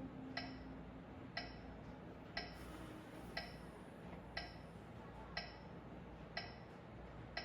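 Metronome ticking steadily at about one click per second, keeping the beat for piano practice.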